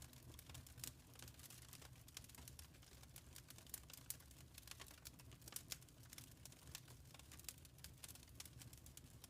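Wood fire in a fireplace crackling faintly, with irregular sharp pops and snaps over a low steady rumble.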